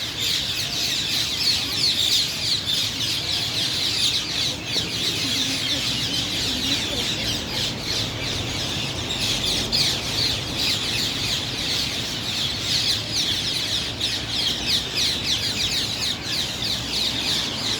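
Dense, unbroken chorus of many rose-ringed parakeets (Indian ringnecks) screeching together at their communal roost tree, many short shrill calls overlapping.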